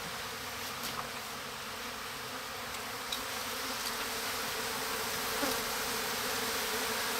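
A mass of honey bees buzzing in a steady drone, the colony stirred up as its hive is taken apart and the bees are scooped out.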